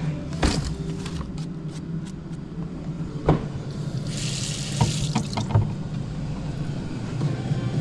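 Kitchen sink tap running for about a second and a half midway, with a few sharp knocks and clinks of kitchenware before and during it, over a steady low hum.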